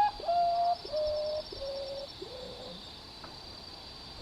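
Common potoo (urutau) singing its mournful descending song: a series of about five pure whistled notes, each lower and fainter than the one before, trailing off about two and a half seconds in.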